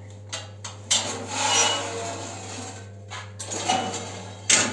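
Mobile cinder-block machine being rolled back on its wheels, scraping and rattling in several bursts. The loudest bursts come about a second in and just before the end.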